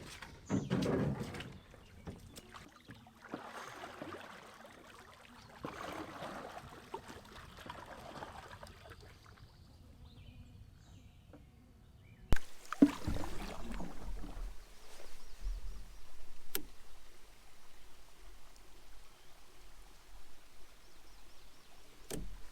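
Canoe paddle strokes through calm lake water, a swishing stroke about every two to three seconds. About halfway through, an abrupt cut gives way to a steady low rumble with light water noise and one sharp click.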